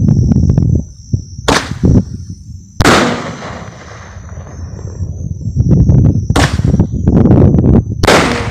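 Fireworks going off: four sharp booms, about a second and a half, three, six and a half and eight seconds in, among quick runs of crackling, each followed by a rumbling echo.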